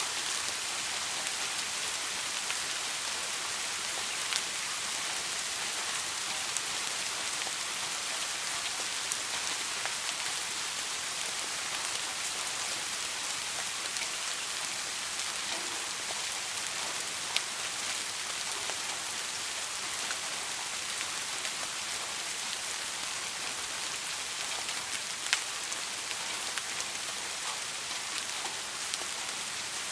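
Steady soft rain falling on a surface, an even hiss with three sharper single drop ticks spread through it. No thunder is heard.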